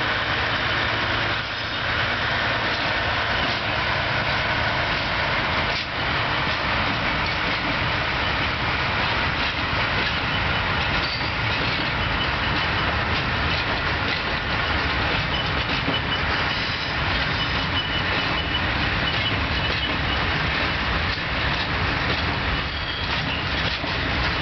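Freight train of empty open wagons rolling past behind a modernised SM42 (type 6Dg/A) diesel locomotive: a steady rumble of wagons with wheels clattering over the rail joints.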